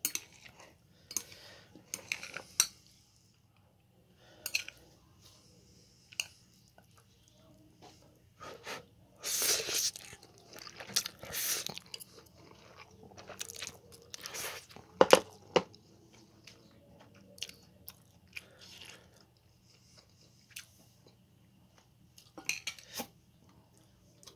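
Someone eating stir-fried instant ramen noodles with chopsticks: scattered chewing and mouth noises. Metal chopsticks click against the bowl now and then, the sharpest click about two-thirds of the way through.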